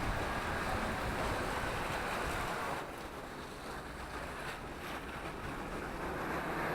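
Wind rushing over the microphone of a rider moving along on an electric unicycle: a steady rushing noise that eases a little about three seconds in.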